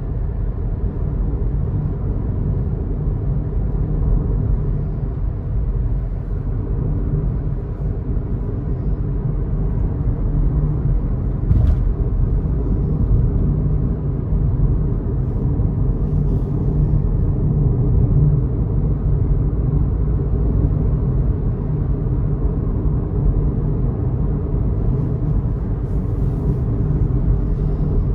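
Steady low rumble of a car being driven: road and engine noise, with a few faint clicks.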